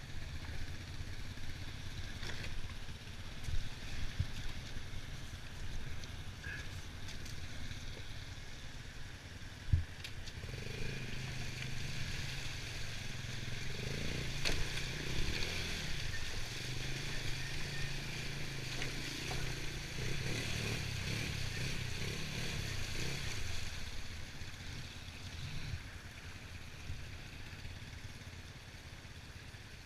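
Honda TRX90 ATV's small single-cylinder four-stroke engine running under way, its note swelling in the middle and easing off near the end, with two sharp knocks in the first ten seconds.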